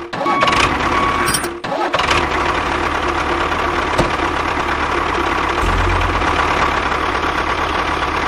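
Engine of a homemade mini tractor running steadily, with two brief dropouts in the first two seconds.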